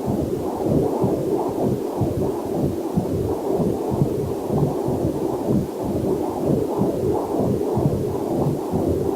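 Fetal Doppler heart monitor picking up a heartbeat: rapid whooshing pulses, about two to three a second, held steady.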